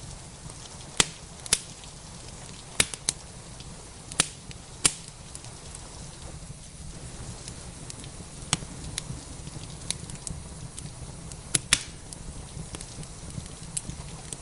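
Wood fire in a fireplace crackling, with sharp, irregular pops, two in quick succession near the end, over a steady hiss of rain.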